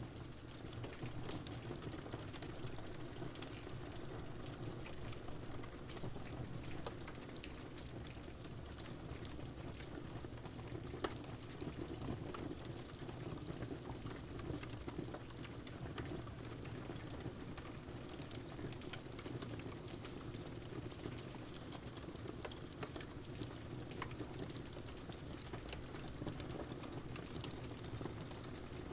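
Wood fire crackling with scattered pops over a steady rush of rain, one sharper pop about a third of the way through.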